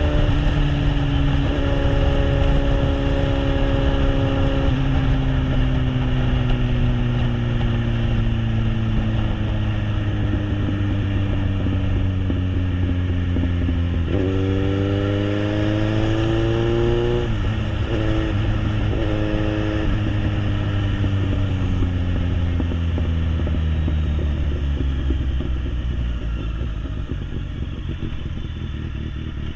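Kawasaki Z800's inline-four engine through an SC Project aftermarket exhaust while riding, over a rush of wind. The revs sink slowly, then rise sharply about halfway through with a couple of quick breaks like gear changes, then fall away again.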